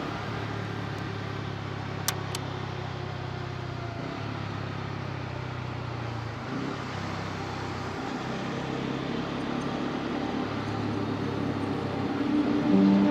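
Bajaj Pulsar N250's single-cylinder engine running under way, with the engine note shifting up and down a few times as the throttle changes. Two sharp clicks come about two seconds in.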